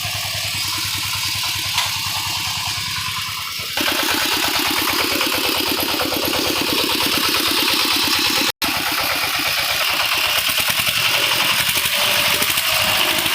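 An engine running with a steady, rapid pulse. The sound jumps louder about four seconds in and cuts out for an instant near the middle.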